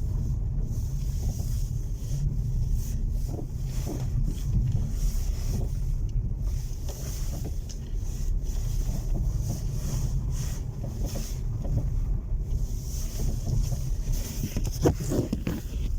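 Car driving over an uneven road: a steady low rumble of road and running noise with wind hiss, and a few short knocks near the end.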